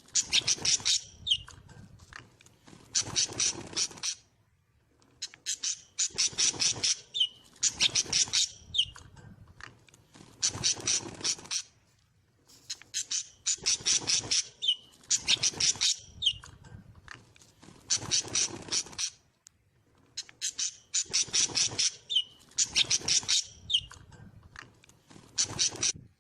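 A small bird calling over and over in high-pitched chattering bouts about a second long, each made of rapid pulses, mostly two bouts close together and then a short pause.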